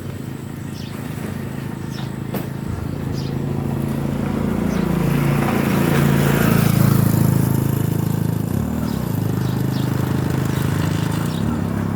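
Motorcycle engine running steadily, building louder and higher toward the middle, then easing back a little past the halfway point.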